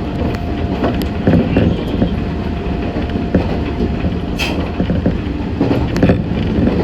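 Running noise heard inside a Meitetsu 6500 series electric train car: a steady rumble of wheels on rails with irregular knocks and clicks. A faint steady tone over it stops about four seconds in, and a sharp click comes just after.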